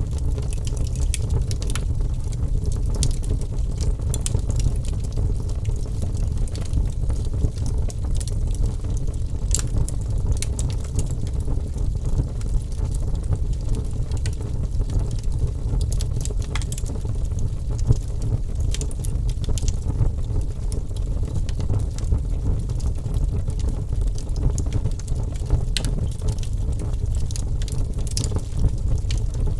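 Wood fire burning: a steady low rumble of flames with scattered sharp crackles and pops.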